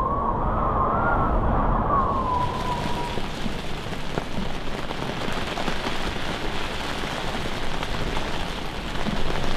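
Steady rain falling on and around a ground blind, an even hiss. In the first two or three seconds a low rumble with a wavering whine rises and falls, then fades out.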